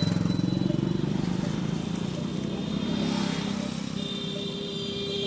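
Motor vehicle engine running with a low pulsing hum, as in road traffic, joined in the last second or so by steady high-pitched tones.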